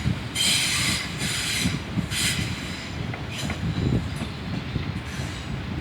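Class 450 electric multiple unit train rolling through, a steady rumble of wheels on rails with a bright hiss of wheel noise swelling and fading about once a second as the coaches go by.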